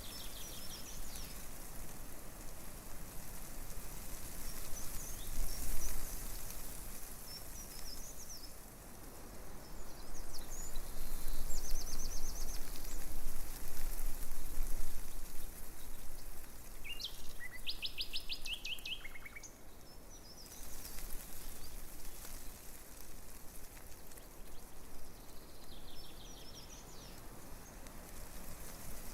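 Small songbirds chirping over a steady rustle of tree leaves in a breeze; the rustle swells for several seconds in the middle, and a rapid trill of quick repeated notes comes a little after.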